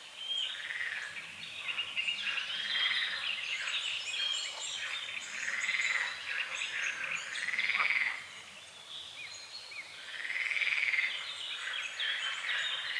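Frogs croaking in a chorus, repeated calls of about a second each, with birds chirping over them.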